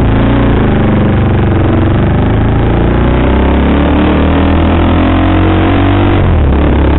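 KTM sportbike engine running under way, loud and continuous, its pitch wandering up and down with the throttle and changing about six seconds in, with wind and road rush mixed in.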